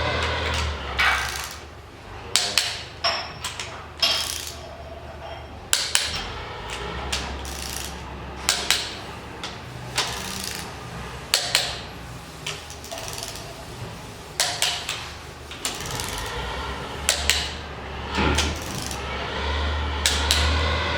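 Hand tools clicking and knocking on metal, many separate sharp clicks at irregular intervals, as the cylinder head bolts of a Toyota 3L diesel are tightened with a wrench. A low engine drone rises and falls underneath.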